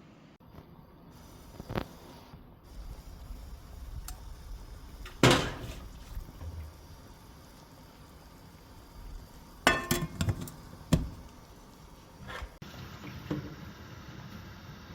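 Kitchen clatter of cooking pots and utensils: scattered knocks and clinks, the loudest about five seconds in and a quick cluster near ten seconds.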